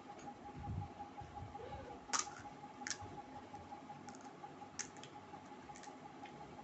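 Eating sounds of panipuri: a few scattered sharp crunches and mouth clicks with soft wet chewing between them.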